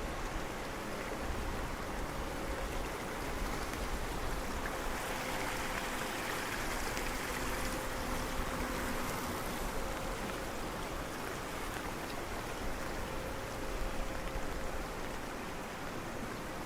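Steady wash of rain and rushing water, with a faint steady hum underneath.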